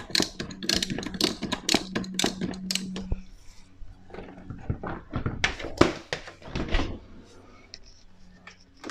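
Hand-tool work on a dishwasher's height-adjustment screw: rapid clicking for about three seconds, then scattered knocks and a louder thump a little under six seconds in.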